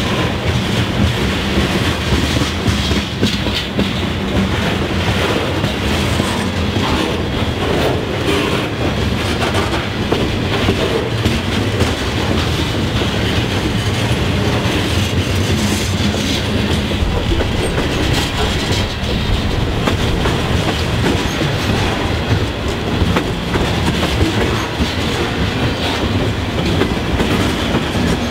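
Freight train cars, covered hoppers and open hoppers, rolling past close by: steady noise of steel wheels on rail with a run of clickety-clack as the wheels cross rail joints.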